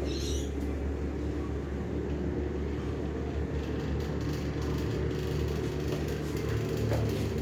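Fan motor of an IXL Tastic running with a steady low hum; its bearings are worn.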